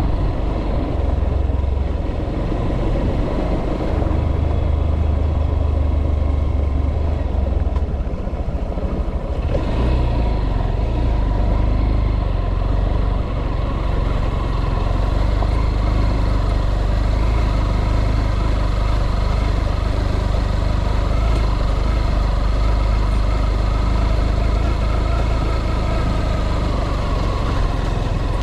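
A motor vehicle running on the move: a steady low engine rumble with road and travel noise, shifting briefly about nine seconds in.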